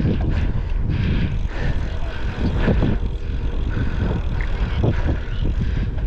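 Wind buffeting the microphone during a bicycle ride: a steady heavy rumble with scattered short bumps.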